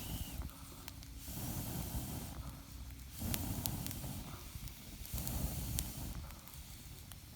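A person blowing on a weakened wood campfire in three long puffs about two seconds apart, with a few sharp crackles from the burning wood in between.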